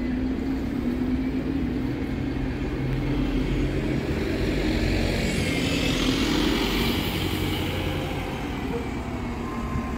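Bus engine running as it passes close by: a steady low drone that grows louder through the middle and eases off near the end.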